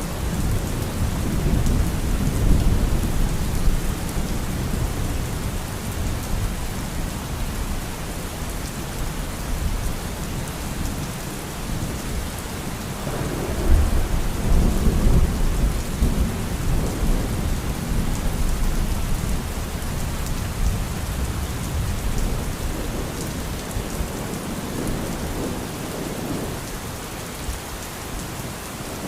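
Steady rain falling in a thunderstorm, with low rolling thunder; a louder rumble of thunder swells about halfway through.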